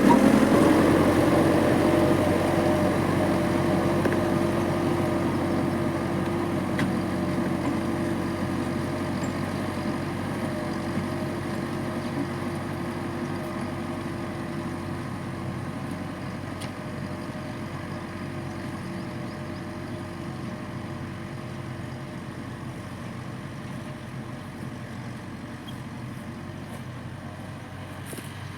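Tractor engine running steadily at constant speed, growing gradually quieter throughout.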